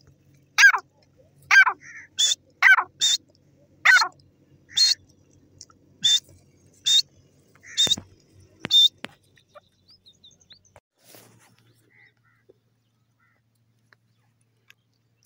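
Grey francolin (gora teetar) giving a series of short, sharp calls, about a dozen in the first nine seconds, lower and higher-pitched calls alternating, then falling silent.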